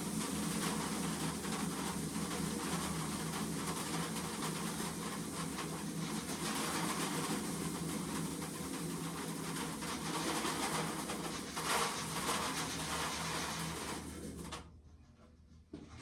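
Shelled corn kernels pouring out of a tipped container, a steady rattling rush that cuts off suddenly near the end.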